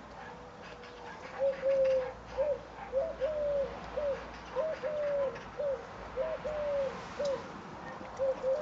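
A bird calling in low three-note phrases, short-long-short, starting about a second and a half in and repeating about every one and a half seconds.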